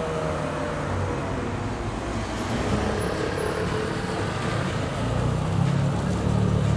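Ferrari 458 V8 engines running at low speed through a slow street corner, mixed with the sound of other passing traffic. The engine sound grows louder about five seconds in.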